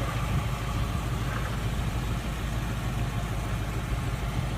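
A car engine idling steadily: an even low rumble.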